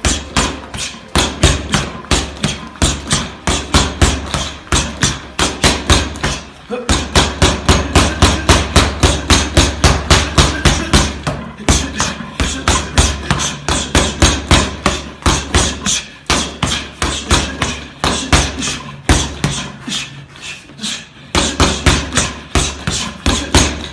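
Boxing speed bag being punched in a fast, steady rhythm of sharp hits and rebounds, several a second, easing briefly twice.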